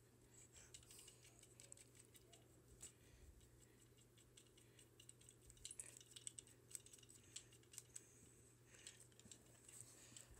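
Near silence: room tone with a low steady hum and faint, irregular clicks and ticks.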